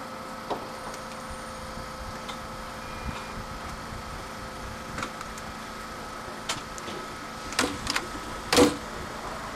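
Narrow-gauge (762 mm) electric train standing at the platform with a steady electrical hum, plus a few light knocks. Near the end comes a cluster of clunks, the loudest just before the end, as the conductor's door is shut.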